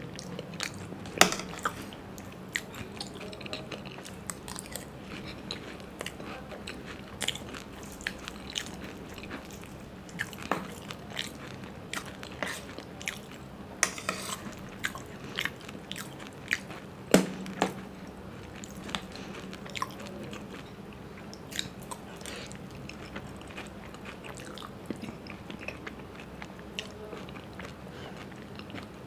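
Close-miked chewing and crunching of a mouthful of raj kachori, crisp sev and puri breaking between the teeth in irregular clicks. The loudest crunches come about a second in and about seventeen seconds in.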